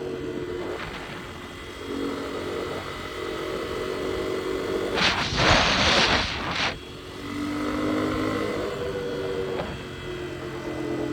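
Dirt bike engine running under way, its pitch rising and falling with the throttle. About five seconds in, a loud hissing rush covers it for under two seconds.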